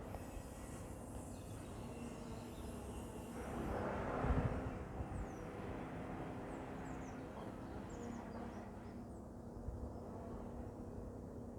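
Outdoor background by a railway: a steady low hum of distant vehicles, a brief swell of noise with a low thump about four seconds in, and small birds chirping.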